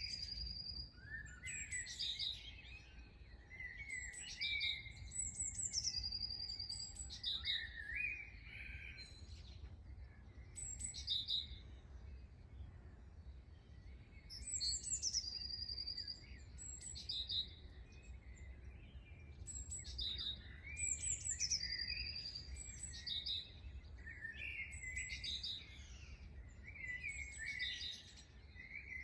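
Several songbirds chirping and singing in short, repeated phrases of sweeping notes and quick trills, with a steady low rumble underneath.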